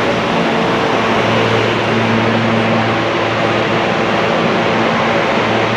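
A train's steady running noise with a low hum that fades in and out.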